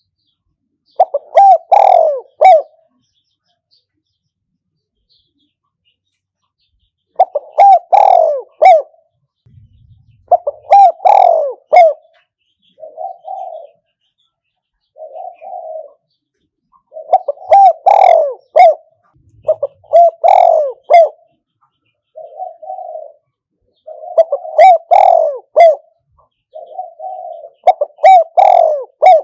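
Spotted dove cooing: loud phrases of several low coos repeated every few seconds, with shorter, fainter coos between the phrases in the second half.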